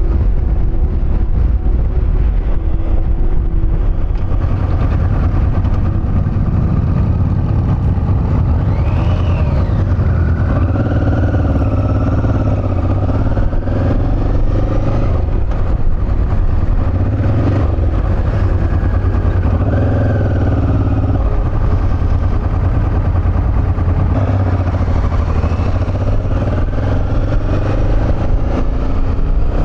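Motorcycle engine running at road speed under a heavy steady rumble, its pitch rising and falling several times as the throttle and gears change.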